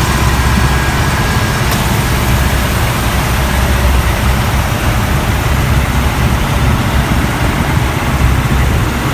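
2009 Chevrolet Avalanche's V8 idling steadily after a successful restart, its no-crank fault now cured. A faint click comes about two seconds in.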